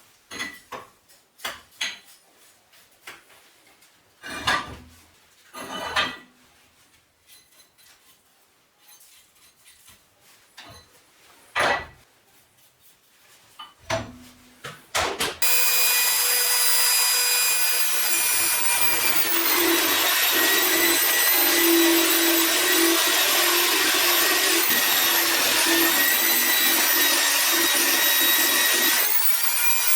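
A few scattered knocks and clanks of metal parts being handled, then about halfway in a power angle grinder starts and runs continuously on metal, a rough grinding rasp over a steady high whine. Its pitch dips briefly a few seconds after it starts and again near the end, as the load on the disc changes.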